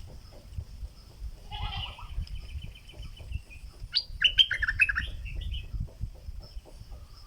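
Stripe-throated bulbul calling: a buzzy, nasal note about one and a half seconds in, then a quick run of bubbly chirping notes about four seconds in.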